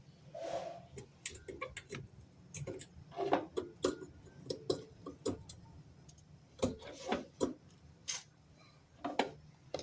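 Irregular light clicks, taps and knocks of small objects being handled, a few each second, over a low steady hum.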